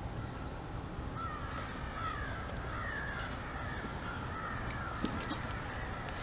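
Birds calling faintly in the distance, a series of short wavering calls, over steady low outdoor background noise.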